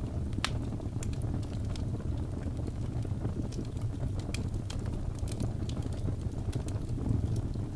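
Fire in a fireplace crackling: a steady low rumble of the burning with frequent sharp pops and snaps, irregularly spaced.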